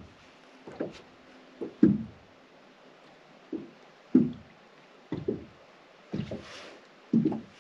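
A series of dull knocks, about ten of them, unevenly spaced at roughly one a second, some coming in quick pairs.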